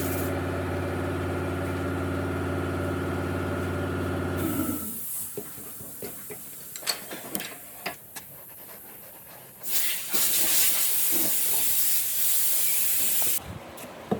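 A power tool's motor runs steadily with a hum, then winds down and stops a few seconds in. A few knocks and clicks follow, then a loud blast of compressed air hisses for about four seconds and cuts off.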